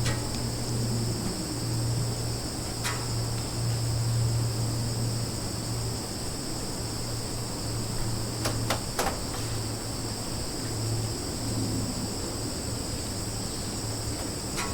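Summer forest ambience: a steady, high-pitched chorus of insects, over a low steady hum. A few brief clicks come about three seconds in and again around nine seconds in.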